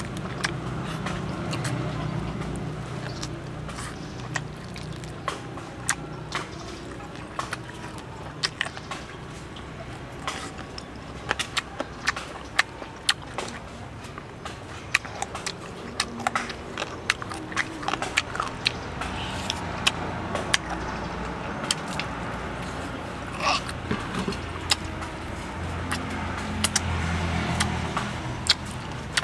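Close-miked chewing and lip-smacking as a man eats chicken off the bone with his hands, with many sharp wet clicks. A low rumble runs underneath and swells near the start and again near the end.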